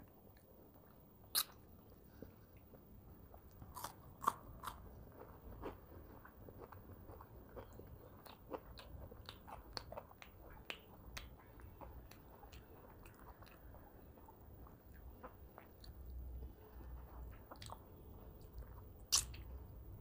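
Close-miked mouth sounds of a person chewing and biting a meal of fried fish, fish curry and rice eaten by hand, with many sharp wet clicks and crunches. The loudest come about a second and a half in, in a quick run of three around four seconds in, and once near the end.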